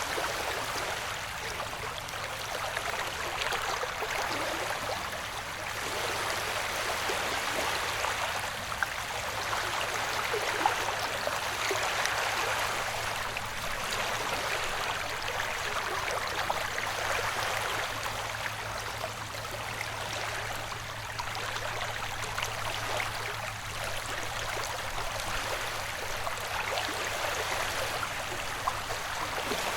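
Ocean-wave white noise: a steady wash of water that swells and eases every few seconds, over a low steady hum.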